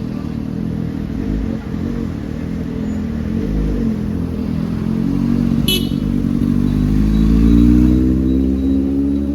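Sport motorcycle engine running, its pitch wavering at first and then rising steadily as it revs up and grows louder. A brief sharp click is heard a little past halfway.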